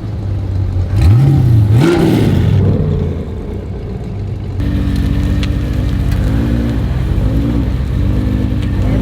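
Car engine revving and accelerating: the engine note climbs sharply about a second in, then runs steadily with repeated rises and falls in pitch as the throttle comes on and off.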